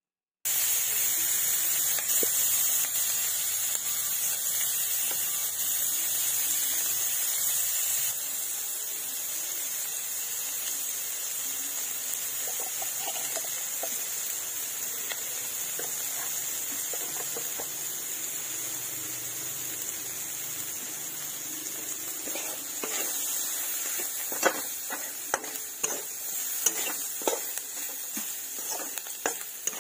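Chopped onions and garlic sizzling in hot oil in a wok, starting abruptly and loudest for the first several seconds, then a steady hiss. In the last several seconds a spatula scrapes and clicks against the pan as they are stirred.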